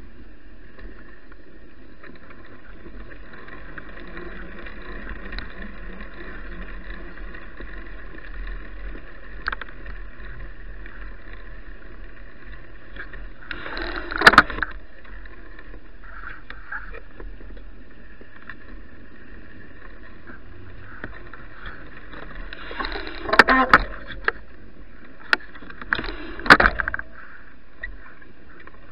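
Steady riding noise of a bicycle, picked up by the action camera filming the ride, broken by short, loud knocks and rattles about halfway through and several more near the end, as the bike jolts over bumps.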